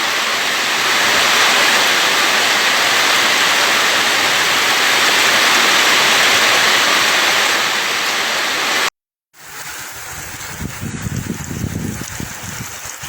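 Steady, loud rush of pouring water, heavy rain or runoff. About nine seconds in there is a brief dropout, then the water sound comes back quieter, with low rumbling.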